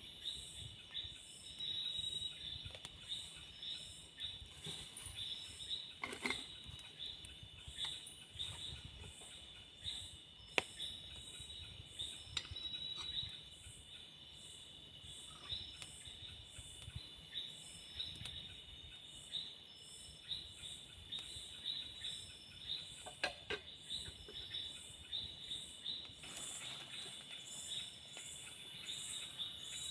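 A chorus of tropical forest insects, crickets among them, calling together: a steady high drone with a pulsing call above it, about two pulses a second. A few sharp clicks or snaps come through now and then.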